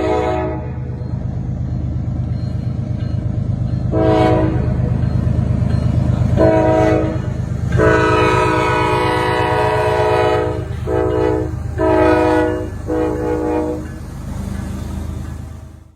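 Diesel locomotive air horn sounding a series of blasts over the steady low rumble of the train: a short blast, a longer one, a long blast of about three seconds, then three short blasts near the end.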